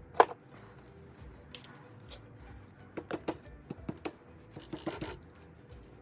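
Hand tools clinking and tapping on metal in irregular, sharp strikes, some ringing briefly; the loudest comes just after the start, and a cluster of lighter clinks follows about three to five seconds in.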